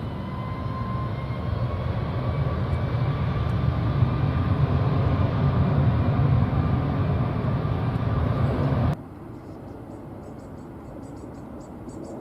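Jet airliner's engines passing close by: a steady jet roar carrying a whine that slowly falls in pitch. The roar cuts off abruptly about nine seconds in, leaving a quieter background with faint rapid high ticking.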